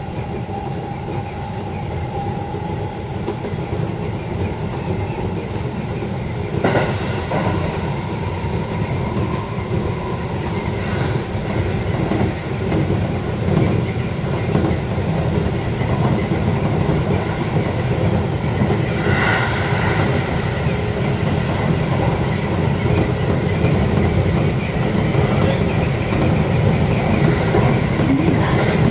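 Electric commuter train running on the Seibu Haijima Line, heard from inside the driver's cab: steady rolling and motor noise with wheels clacking over the rails. There is a sharp knock about seven seconds in, and the noise slowly grows louder.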